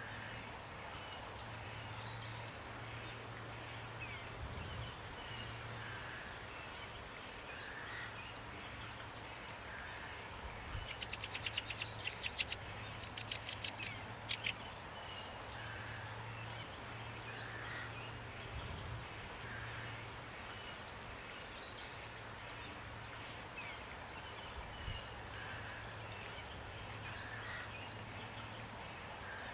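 Steady rain with songbirds calling in short, high chirps and whistles that keep recurring. From about 11 to 14 seconds in, a fast rattling run of sharp notes stands out as the loudest part.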